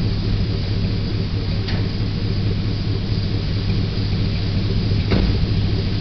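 Engine idling steadily through a true dual exhaust with Thrush mufflers, a deep even rumble from the tailpipes, with two faint clicks, one about two seconds in and one near the end.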